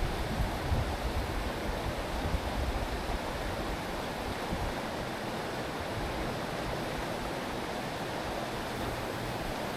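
Steady rush of a mountain stream's flowing water. Low wind rumble on the microphone over the first few seconds.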